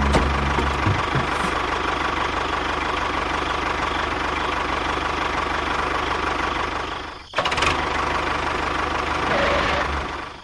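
Engine running steadily, dropping away briefly about seven seconds in and then picking up again.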